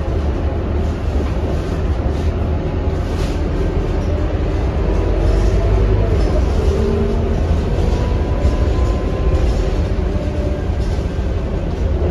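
Scania K230UB city bus with its five-cylinder diesel engine running steadily under way, giving a low, unbroken rumble with road noise and a faint whine that shifts slightly in pitch.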